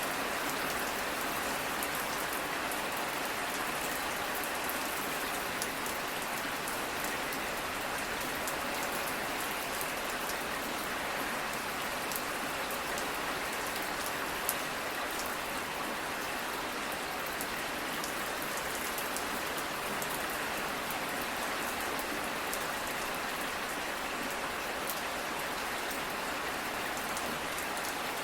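Steady rainfall, an even hiss with many fine drop ticks.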